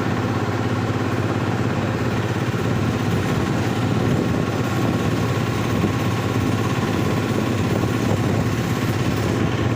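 Steady, even engine drone with a low hum that holds the same pitch and level throughout.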